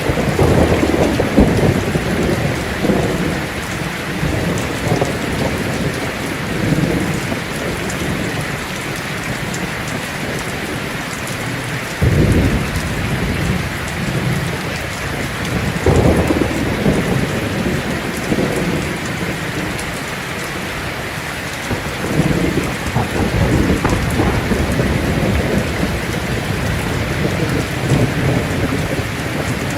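Heavy rain drumming steadily on a tin roof, with rolls of thunder. One rumble is rolling at the start, sharper claps break in about 12 and 16 seconds in, and another rumble comes about 22 seconds in.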